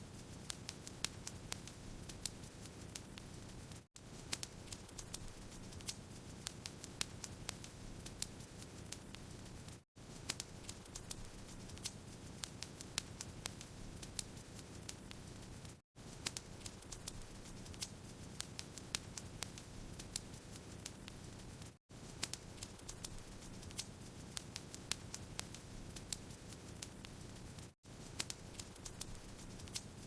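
Fire burning in a fireplace, crackling: irregular sharp pops and snaps over a steady low rush of flame. The sound cuts out for an instant about every six seconds.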